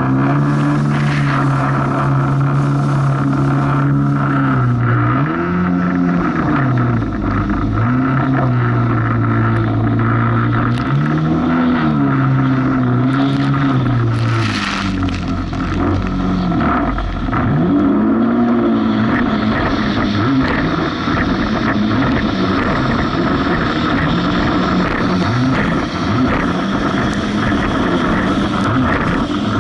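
Jet ski engine running hard over rough waves, its pitch sagging and climbing back every few seconds as the revs change.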